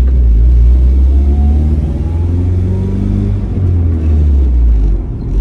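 Turbocharged Honda B18 four-cylinder in a Civic EK coupe, heard from inside the cabin while driving, with a steady low drone. The engine note climbs for a couple of seconds and drops back about three and a half seconds in.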